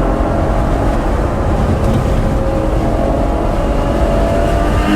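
Ferrari GTC4Lusso's 6.3-litre V12 running steadily under way, its pitch rising slowly, over a heavy low road rumble.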